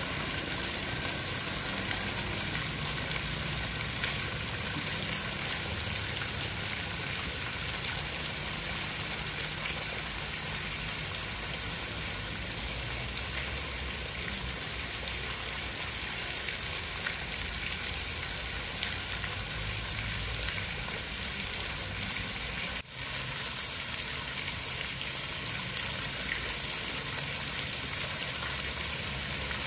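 Steady hiss of falling and running water, with a low rumble underneath. It cuts out for an instant about 23 seconds in.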